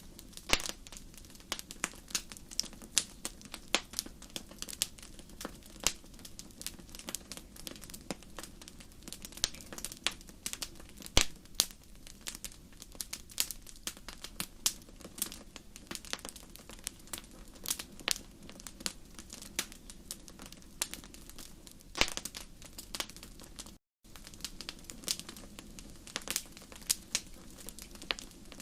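Wood fire crackling in a fireplace: irregular sharp pops and snaps, some louder than others, over a steady low hiss of burning. There is a split-second gap of silence about 24 seconds in.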